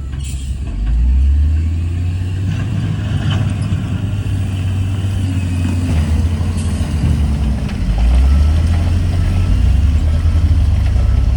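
Heavy diesel engine of earthmoving equipment running with a deep, steady rumble, getting louder about a second in and again around eight seconds in. A brief hiss comes near the start.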